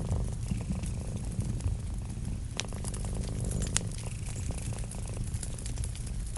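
Cat purring steadily in a low rumble over a crackling wood fire, with scattered sharp pops, two louder ones about two and a half and four seconds in.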